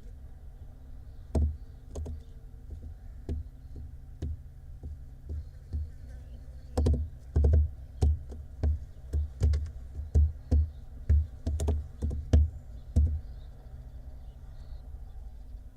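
A series of knocks and thuds in a barn owl nest box as the owls move about inside it: a few scattered ones, then a quicker run of about a dozen before they stop.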